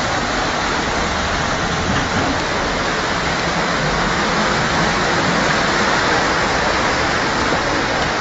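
Heavy rain pouring steadily: a continuous, even rush of water with no breaks.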